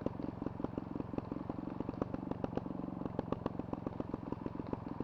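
Trials motorcycle's single-cylinder engine idling with a rapid, regular popping beat.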